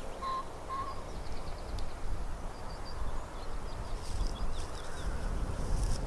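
Small birds chirping in short, high calls scattered throughout, over a low background rumble.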